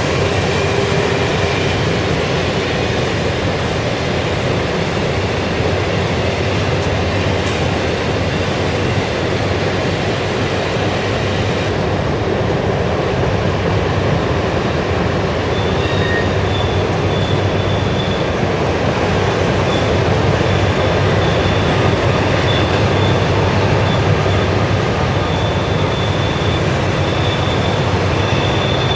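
Model diesel locomotives running on the layout, a steady continuous engine rumble from sound-equipped models, with a faint high tone coming and going from about halfway through.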